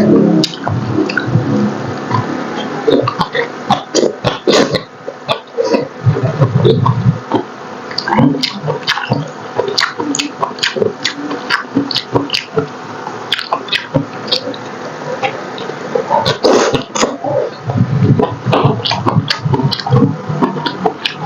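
Close-miked chewing and wet lip smacking of a person eating paksiw na pata, vinegar-braised pork leg. There are many quick, irregular smacks and clicks.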